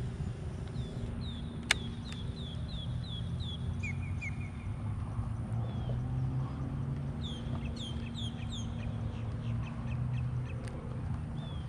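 A bird calling in quick runs of short downward-slurred notes, about four a second, twice over, with a brief lower run in between. There is a single sharp click about two seconds in, over a steady low rumble.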